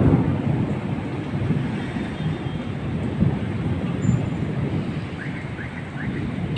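Thunder rolling with a long low rumble, loudest right at the start and slowly easing off.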